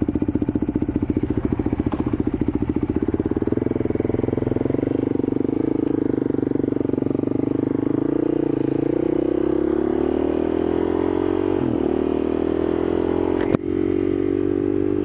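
Motorcycle engine running while riding, its pitch rising gradually through the second half as it speeds up. A single sharp click about 13.5 seconds in.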